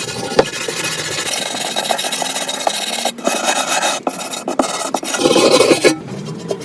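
Rasping, scraping hand work with an abrasive tool on a workpiece, in irregular strokes, loudest just before it stops near the end.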